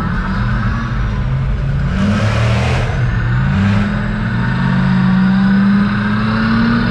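A large truck engine running, its pitch stepping and rising several times as the revs climb. There are two short hisses about two and three and a half seconds in.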